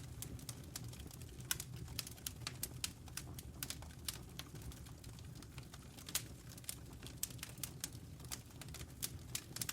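Wood fire crackling in a fireplace: many irregular sharp pops and snaps over a low rumble of flames.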